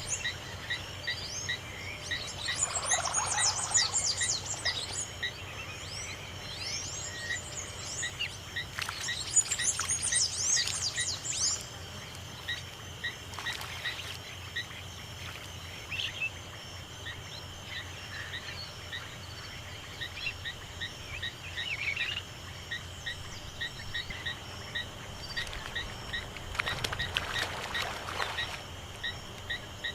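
Small songbirds twittering in quick, high phrases, loudest a few seconds in and again around ten seconds, over a short chirp that repeats a couple of times a second and a steady insect buzz. A brief rustling noise comes near the end.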